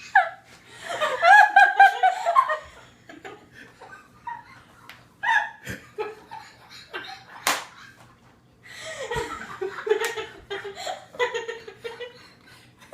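People laughing hard in two long bouts, with a single sharp slap about seven and a half seconds in.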